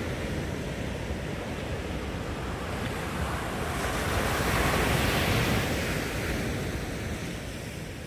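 Ocean waves breaking on a beach: a wave surges and washes in, loudest around the middle, then eases off. Wind buffets the microphone with a low rumble.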